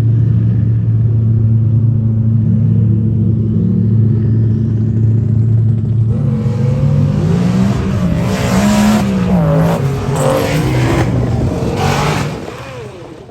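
Drag race car engines held at a loud steady rumble on the starting line, then launching at about six seconds. They rev hard, with the pitch rising and falling through the run, and fade away near the end as the cars pull down the track.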